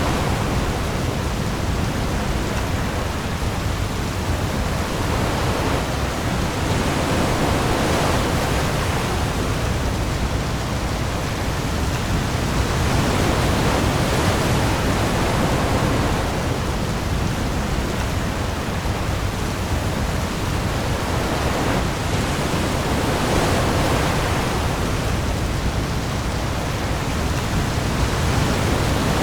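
Steady hiss of heavy rain falling on the open sea, over a low rumble. A wave swells up and falls away about every seven or eight seconds.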